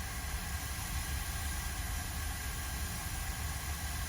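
Steady airflow hiss over a low hum from electronics bench equipment running during capacitor rework on a logic board.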